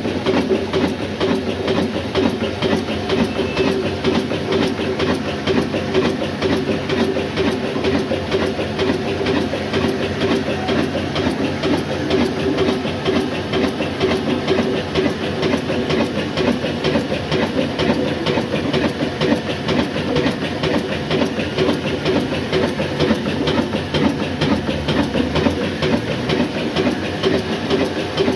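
Old black diesel oil engine running steadily under load while driving a flour mill, a fast, even mechanical clatter with a steady hum.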